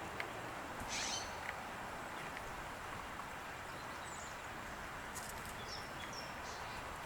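Outdoor ambience: a steady background hiss with a few brief, high songbird chirps scattered through it, about a second in and again in a cluster near the end.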